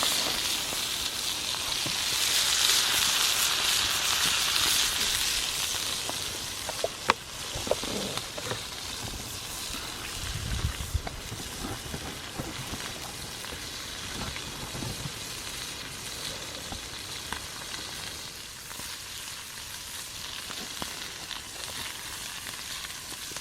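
A fillet of meat searing in hot oil in a pan, sizzling loudly at first and settling to a quieter, steady sizzle after about five seconds. A sharp click comes about seven seconds in.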